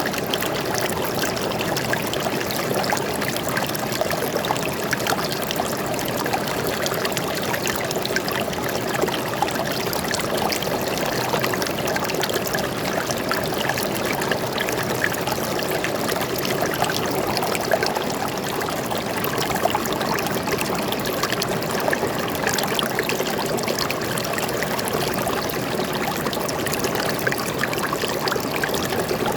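Stream water flowing and trickling steadily over stones, without a break.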